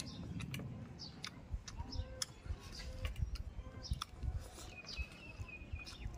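Mouth noises of hand-eating fish and rice: chewing with repeated sharp lip-smacking clicks. Birds chirp in the background throughout.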